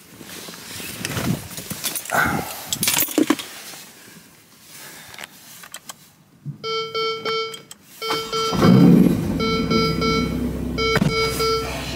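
Rustling and clicks of someone settling into a car seat, then a repeating electronic tone begins. About two seconds later the Ferrari Portofino's twin-turbo V8 is started with the start button, opening with a loud surge that falls back to a steady idle.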